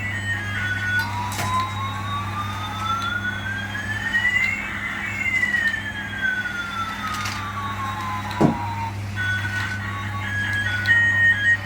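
Electronic siren-like sound: over about eight seconds one tone slides slowly up while another slides down, the two crossing midway, over a steady low hum. A single click comes about eight and a half seconds in.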